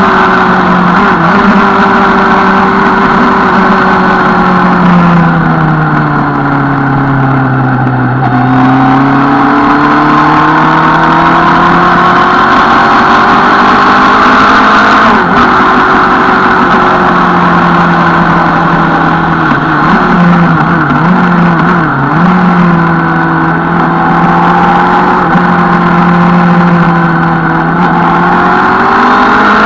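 Suzuki Bandit 650 N motorcycle's inline-four engine running at a steady cruise. Its revs drop for a few seconds about a quarter of the way in, climb back, and dip briefly again about two-thirds through.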